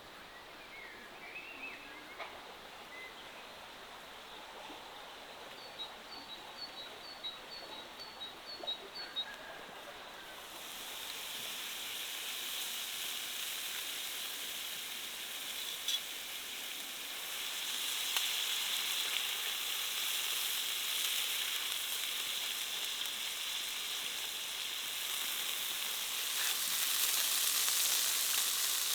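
Food frying in hot oil in a pot over a wood fire, a sizzle that starts about a third of the way in and grows louder toward the end. Before it, a quick run of short high chirps.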